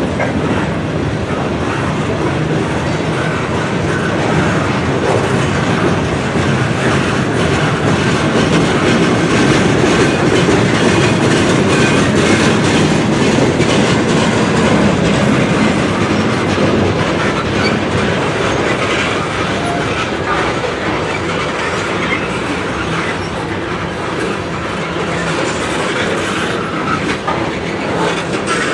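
Freight cars of a long manifest train rolling past, a steady loud rumble and clatter of steel wheels over the rails, swelling slightly in the middle.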